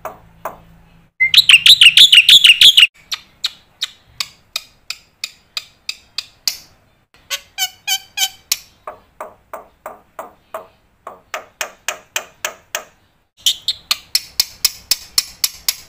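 Black-winged myna (jalak putih) singing: long runs of short, evenly repeated notes, about three or four a second, broken by a loud harsh chattering phrase about a second in and another near the end.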